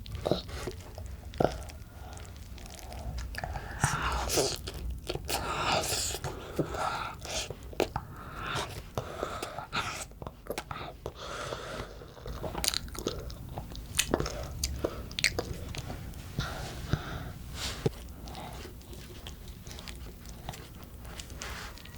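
Close-up eating sounds of black bean sauce noodles (jjajangmyeon) being chewed and bitten: wet mouth noises with many sharp clicks, busiest in the middle.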